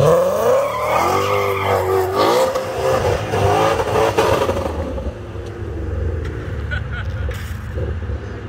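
Ford Mustang accelerating hard, its engine revving up in several rising steps as it pulls through the gears, then easing to a lower, steadier note about five seconds in as it drives away.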